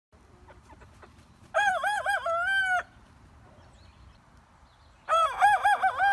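Rooster crowing twice, a cock-a-doodle-doo each time: a run of quick rising-and-falling notes ending in a held note, the two crows a few seconds apart.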